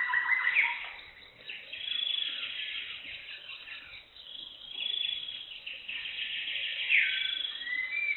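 Wild birds calling: a high, fast-pulsed phrase repeats about every three seconds, with a falling call and a lower trill near the end.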